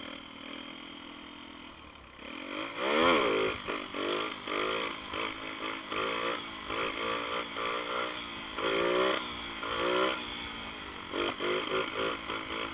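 Xpro Storm DLX 150cc pit bike engine idling steadily, then revving up about two and a half seconds in. It keeps running with repeated throttle rises and falls in pitch as the bike is ridden.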